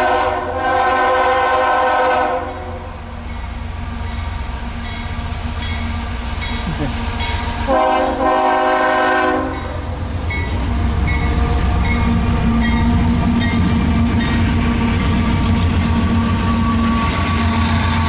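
Diesel freight locomotive's multi-chime air horn sounding two long blasts, one at the start and another about eight seconds in, as a loaded coal train approaches. From about ten seconds in, the lead diesel locomotives run past close by with a loud, steady engine drone.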